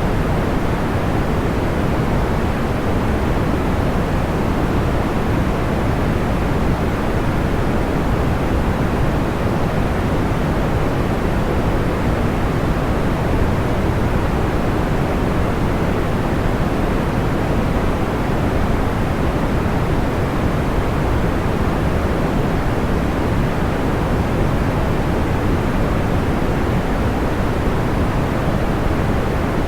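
Steady, even pink-type noise used as a sleep sound, deep and soft with the highs rolled off. It never changes, and no fire crackles stand out in it.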